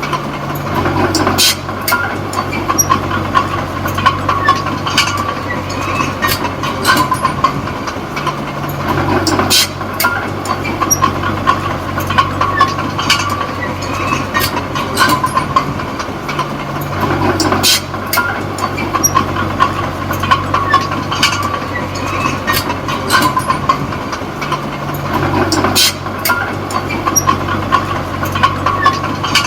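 D20P crawler bulldozer's diesel engine running, with the tracks clanking steadily. The engine hum drops off and comes back about every eight seconds, in pushing and reversing passes.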